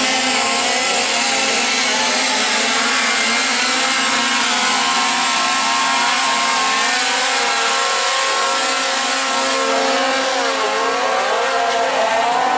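Gas chainsaws running and revving, their pitch rising and falling over a steady drone.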